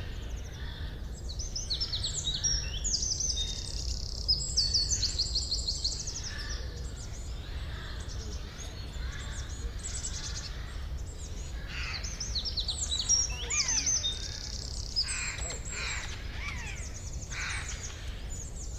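Several forest songbirds chirping and trilling in quick overlapping phrases over a steady low rumble. The calls are busiest in the first few seconds and again past the middle.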